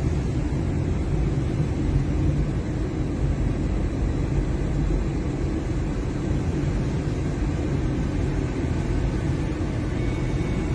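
Steady low rumble of a car driving along a road, with no sudden events.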